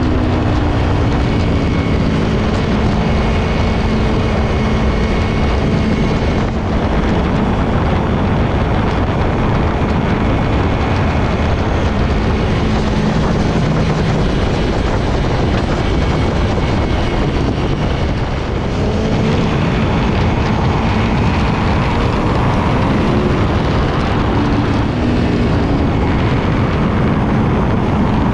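Aprilia Tuono V4 1100's V4 engine running on the move, under heavy wind noise on the microphone. The engine pitch rises and falls with the throttle.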